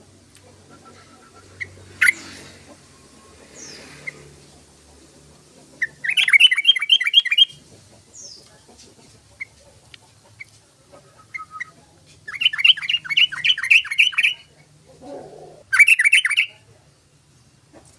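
Yellow-vented bulbul singing in three bursts of rapid bubbling notes, the middle one the longest, with scattered single chirps between them.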